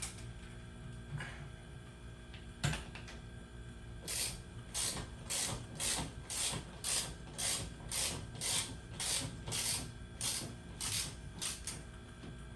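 Hand ratchet wrench worked back and forth in a steady rhythm, about fifteen ratcheting strokes at roughly two a second, after a single sharp click.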